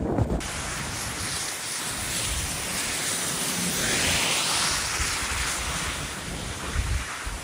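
Typhoon wind gusting hard and buffeting the microphone over a steady rushing storm noise that swells about four seconds in.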